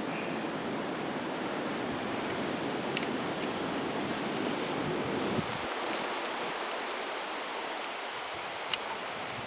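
Strong wind rushing steadily through the forest trees, with wind buffeting the microphone in a low rumble that drops away about halfway through. A few faint clicks sound on top.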